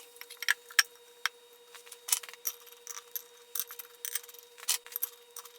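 Irregular light metallic clinks and clicks of small parts and hand tools being handled, over a faint steady hum.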